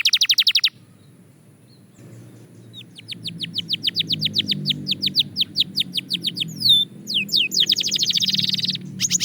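Belgian canary singing: a fast trill cuts off under a second in, and after a short pause comes a long run of evenly repeated chirping notes, about seven a second. A few downward-sweeping whistles follow, then a dense, rapid rolling trill near the end, over a low background hum.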